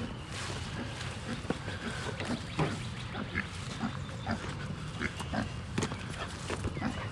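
Pigs grunting: a string of short, irregular grunts.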